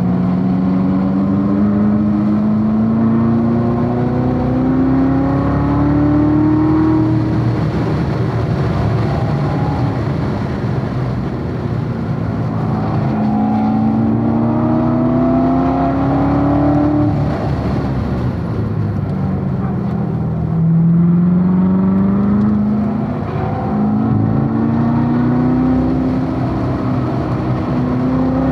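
Chevrolet Corvette C7 Z06's supercharged 6.2-litre V8 at full throttle on a race track. Its pitch climbs steadily and drops back sharply several times, at about 7, 17 and 22 seconds in, and climbs again each time, over steady road and wind noise.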